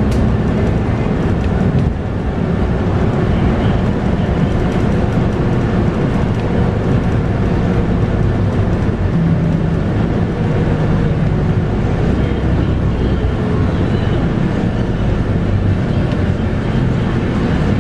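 Interior ride noise of a Scania K230UB bus under way: its 8.9-litre five-cylinder Scania DC9 diesel running steadily amid road and body noise.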